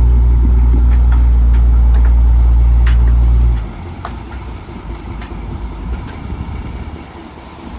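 A loud, steady low mechanical hum from the trawler's machinery, cutting off suddenly about three and a half seconds in. It leaves a quieter engine rumble with a few scattered knocks.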